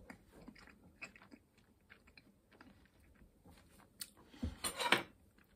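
Faint mouth sounds of chewing and lip smacking, with a few louder smacks about four to five seconds in.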